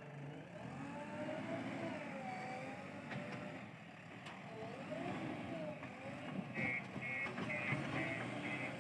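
Diesel engine of a JCB 3DX backhoe loader running under working load, its pitch rising and falling as the hydraulics work. Near the end a reversing alarm starts beeping rapidly and evenly.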